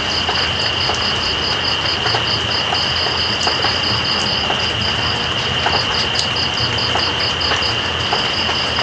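Steady rain with night insects calling over it: one gives a continuous high trill, another chirps in even pulses about four times a second. Scattered drip clicks sound through the rain.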